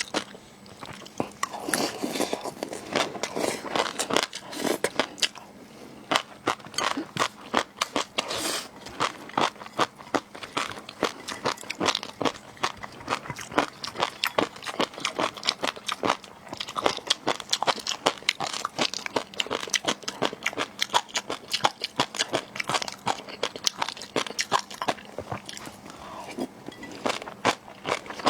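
Close-miked eating of seafood: continuous crisp crunching, biting and chewing, a rapid run of crackles.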